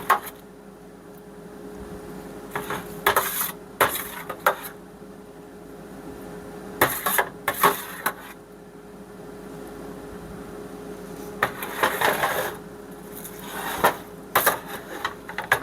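A serving utensil clinking and scraping against a baking dish and plate in irregular bursts as blueberry pie-filling sauce is spooned over cooked chicken breasts.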